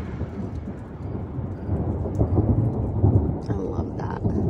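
Thunder rumbling, swelling louder about two seconds in before easing off.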